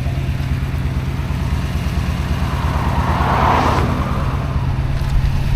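Truck engine idling steadily. About three seconds in, a rushing noise swells and fades away within about a second.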